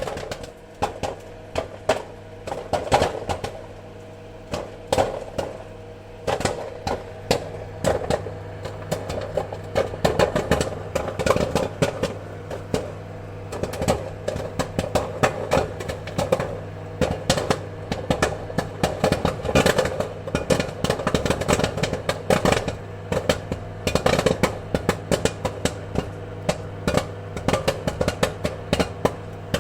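Popcorn kernels popping, a few scattered pops at first, then rapid irregular popping from about a third of the way in, over a steady low hum.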